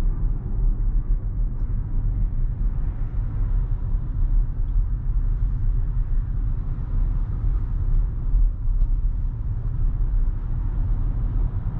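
Steady low rumble of road and tyre noise heard inside a Tesla electric car's cabin while it drives, with no engine sound.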